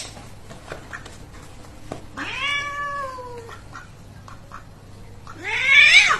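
A cat meowing twice: a long meow about two seconds in that drops in pitch at its end, then a louder, shorter meow rising in pitch near the end.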